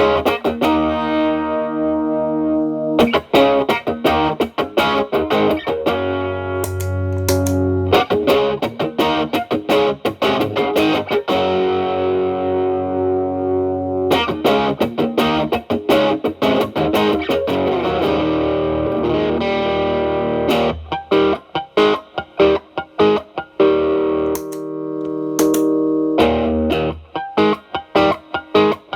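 Fender Telecaster played through an Xotic BB overdrive pedal into a Marshall Valvestate amp, in mild overdrive: chords left to ring, then quick choppy strummed strokes in the second half.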